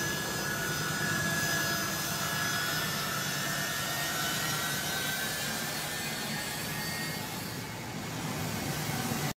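Jet aircraft engines running during a takeoff: a steady rushing noise with thin high whining tones over it.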